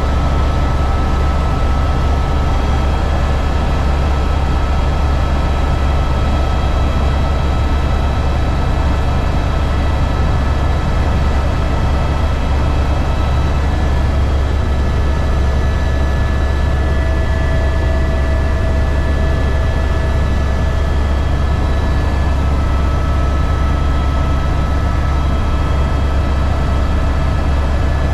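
Helicopter in flight: a loud, steady low drone with several thin, steady high tones above it.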